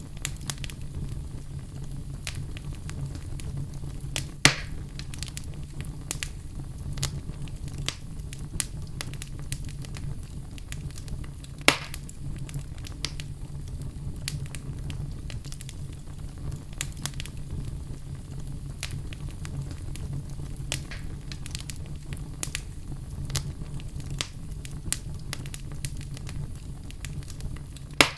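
Wood fire burning in a fireplace: a steady low rumble under frequent small crackles, with sharp louder pops about four seconds in, near the middle, and at the very end.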